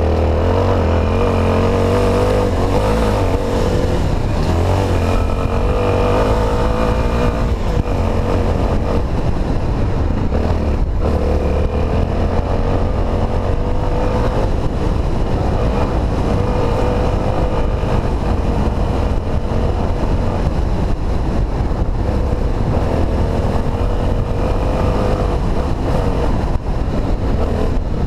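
Honda XR250 Tornado's single-cylinder four-stroke engine running steadily as the bike is ridden, its pitch rising and falling with the throttle.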